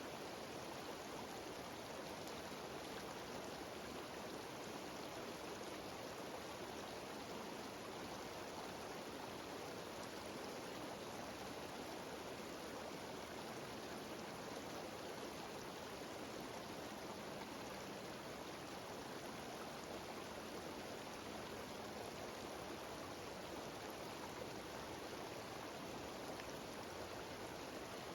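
Small mountain waterfall cascading over rocks: a steady, even rush of water with no breaks.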